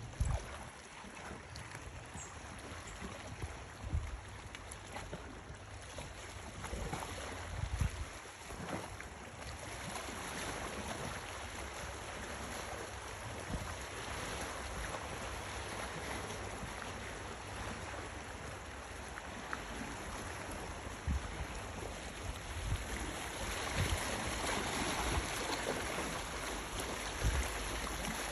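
Steady rush of sea and wind, with wind buffeting the microphone in short low thumps now and then.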